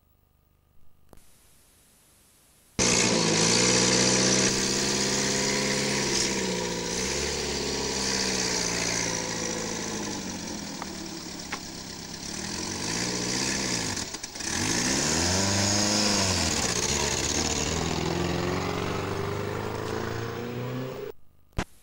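Faint tape hiss, then about three seconds in a small sports car's engine comes in loudly, running with its pitch falling and rising again several times as it revs and eases off, until it cuts off about a second before the end.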